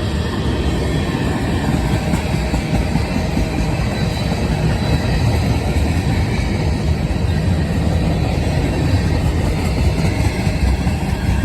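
Freight train cars, loaded rock cars and side dump hoppers, rolling past on the rails: a steady, continuous rumble of steel wheels on track.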